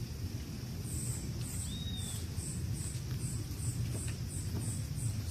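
An insect chirping in a steady rhythm, about three short high chirps a second, starting about a second in. A single short falling bird note comes a little before two seconds, over a steady low rumble.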